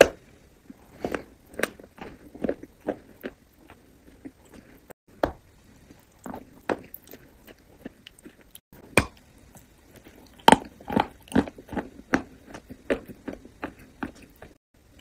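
Close-miked eating of a soft, crumbly chocolate cake: irregular bites and chewing with sharp mouth clicks, right at a lavalier microphone. The loudest bites come about nine and ten and a half seconds in.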